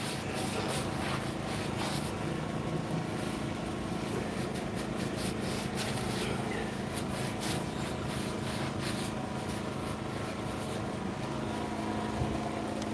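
A steady mechanical hum with a constant low tone, under faint scattered clicks and rustling.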